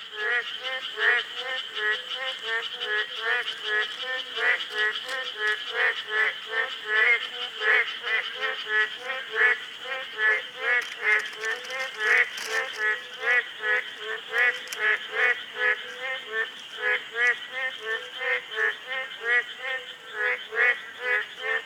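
Chorus of boreal digging frogs (Kaloula borealis, 맹꽁이) calling: many short croaks from several frogs overlapping, a few each second, over a steady high-pitched background chorus.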